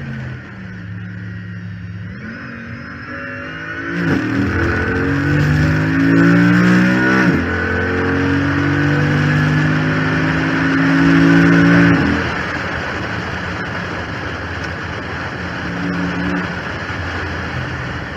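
2014 Chrysler 300 SRT8's 6.4-litre HEMI V8 on track, heard from the hood: about four seconds in it pulls hard with the note rising, drops at an upshift, climbs again, then falls back about twelve seconds in as the throttle is lifted. Over it runs a whine that the owner puts down to the power steering pump having failed, which he says makes it sound like a Hellcat.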